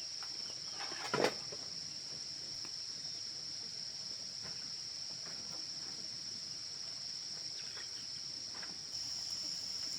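Insects trilling steadily in a continuous high-pitched chorus, with a single sharp knock about a second in.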